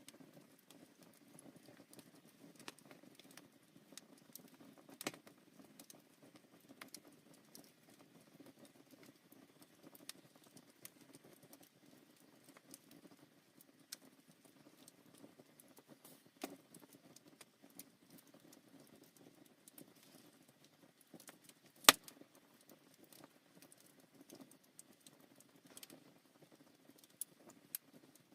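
Oak firewood burning in the firebox of a Korean ondol floor-heating stove: a steady low rumble of the fire with frequent small crackles and snaps, and one sharp, much louder pop about 22 seconds in.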